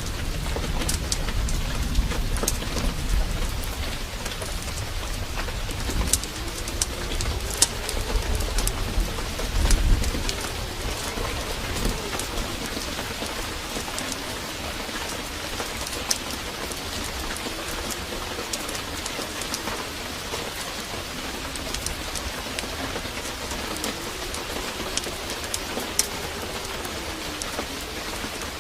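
Heavy rain pouring steadily, full of sharp drip and patter ticks. A low rumble of thunder runs through the first ten seconds, swells near the tenth second, then fades.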